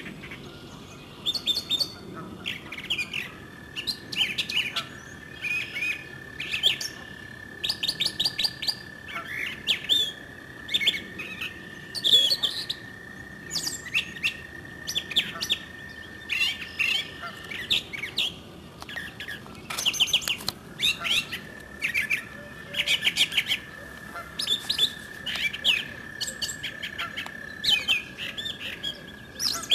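Songbirds chirping and trilling in quick, overlapping short calls, with a steady high tone running beneath that drops out for a few seconds past the middle.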